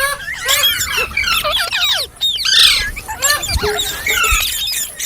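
Green parrots chirping and squawking: many quick, rising and falling calls, several overlapping at once, with no break.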